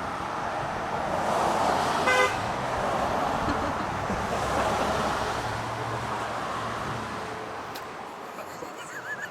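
A motor vehicle passing, its noise swelling and then fading, with a short horn toot about two seconds in.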